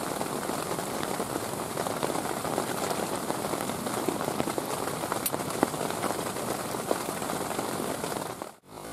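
Heavy rain falling, a steady hiss with scattered drop ticks, cutting off suddenly just before the end.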